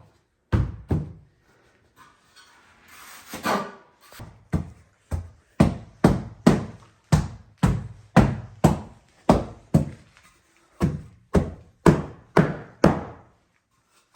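Hammer blows in a steady rhythm of about two a second, with a short pause about ten seconds in. A rough scraping noise comes a few seconds in, before the run of blows.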